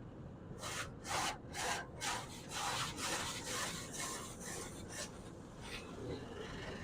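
Car-wash brushes rubbing across the car in a run of repeated swishes, about two a second, that stop shortly before the end.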